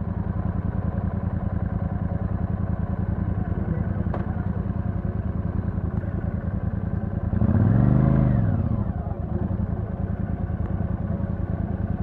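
Royal Enfield Super Meteor 650's 648 cc parallel-twin engine idling through the stock exhaust with an even, low pulsing beat. About seven seconds in, the throttle is blipped once and the revs rise and fall back to idle.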